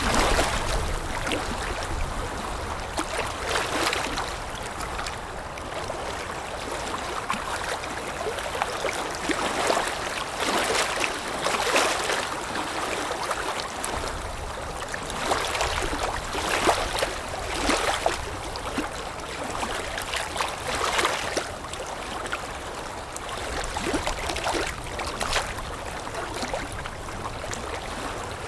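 Water lapping in small, irregular splashes every second or two, with wind rumbling low underneath.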